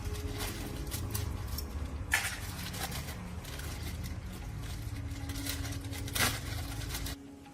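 A steady low mechanical rumble with several sharp knocks and scrapes over it, cutting off suddenly near the end.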